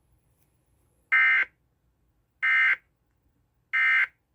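Emergency Alert System end-of-message data tones: three short, identical bursts of harsh digital warbling, a little over a second apart, marking the end of the broadcast severe thunderstorm warning.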